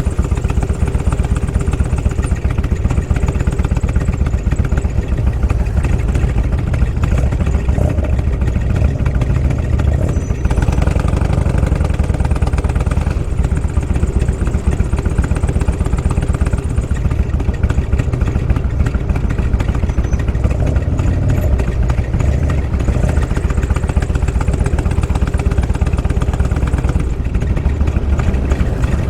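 Motorcycle engine running with a steady, low exhaust rumble.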